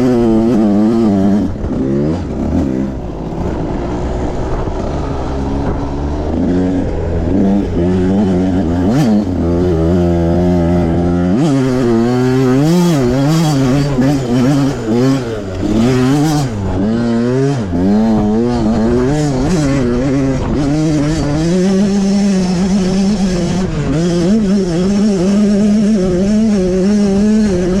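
Pit bike engine revving up and down over and over as it is ridden hard, the pitch climbing and dropping every second or so. A low rumble sits under it for about the first ten seconds.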